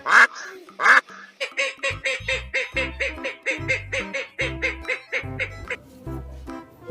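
Two goose honks about a second apart, followed by upbeat background music with a steady beat.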